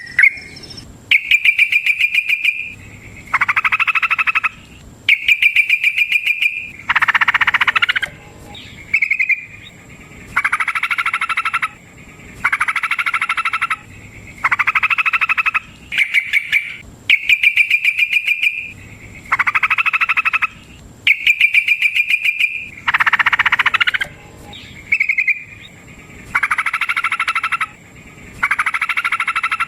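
Yellow-vented bulbul (trucukan) singing: loud repeated phrases about every two seconds, alternating a fast, even chattering trill on one pitch with a fuller warbled phrase, a long-running 'ropel' song bout.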